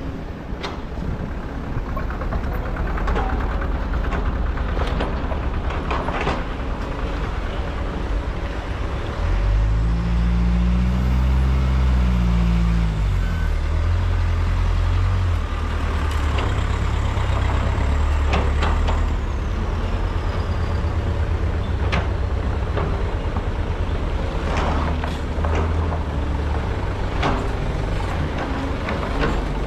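Kobelco hydraulic excavator's diesel engine running steadily, revving up under load about nine seconds in, then rising and falling in pitch over a few seconds before settling. Scattered sharp knocks and clanks from the machine at work.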